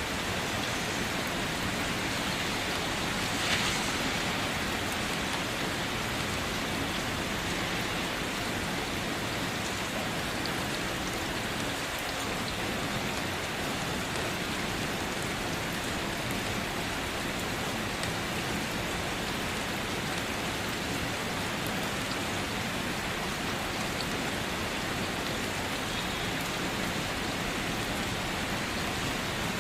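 Steady rain falling on a surface, with scattered drop hits and a brief louder spatter about three and a half seconds in.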